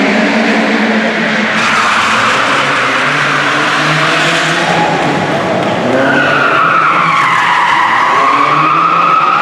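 Classic car drifting: engine working hard under a haze of tyre noise, with tyres squealing, and a long squeal from about six seconds in that slides down in pitch and then holds.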